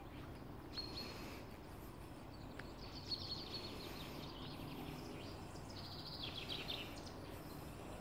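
Faint songbird calls over low steady outdoor background noise: a short call about a second in, a quick run of chirps about three seconds in, and a rapid trill around six seconds in.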